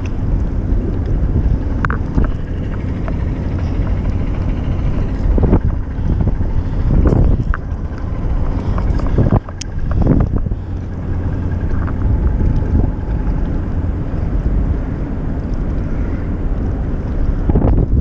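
Wind buffeting the microphone: a loud, steady low rumble that swells in uneven gusts.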